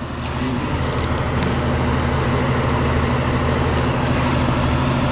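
A motor vehicle engine idling, a steady low hum with even traffic-like noise over it.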